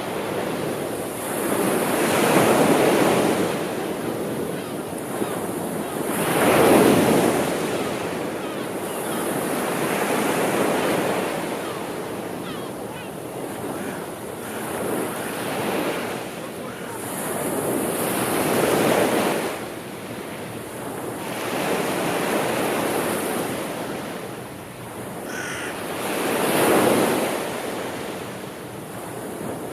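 Sea waves breaking and washing on a shore, the surf swelling and falling back in slow surges every four seconds or so.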